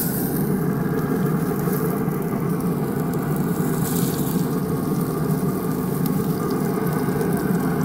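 Battered frog legs laid into hot oil and butter in a cast iron skillet, sizzling as they go in, with short hisses at the start and again about four seconds in. A steady low rumble runs underneath.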